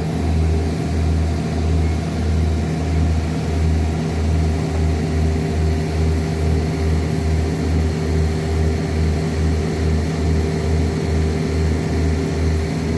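Excavator diesel engine running hard, with a rhythmic low throb that gradually quickens.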